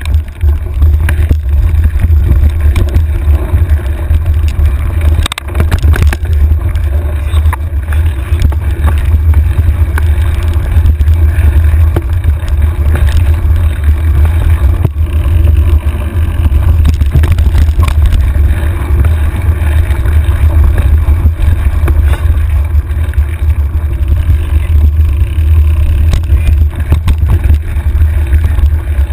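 Wind buffeting a handlebar-mounted camera's microphone on a mountain bike rolling down a dirt trail, a loud steady low rumble with the hiss of tyres and scattered knocks and rattles from the bike going over rough ground.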